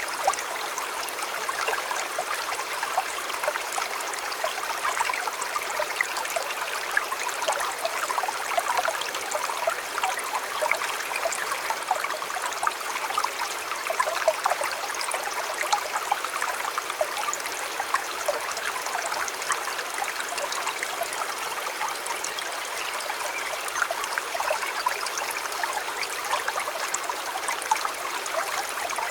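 Shallow river flowing steadily over stones, a continuous babbling and trickling of water.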